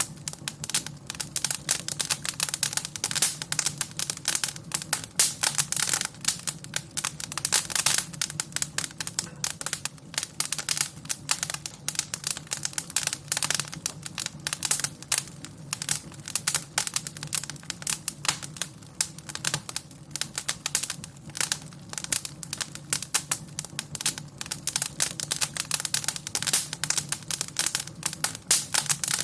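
Fire crackling in a fireplace: dense, irregular pops and snaps throughout, over a low steady rumble.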